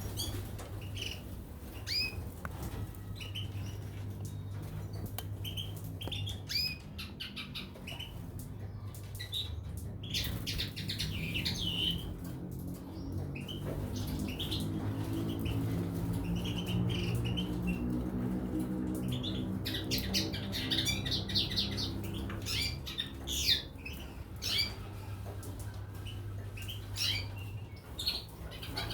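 Caged goldfinches and canaries giving short, scattered chirps and calls, over a steady low hum. A low droning swells in the middle and fades again.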